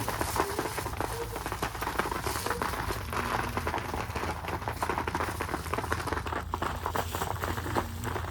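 Pigeons shuffling and rustling in a small enclosure: a dense patter of small scratches and wing and feather rustles, with a few faint low coos now and then.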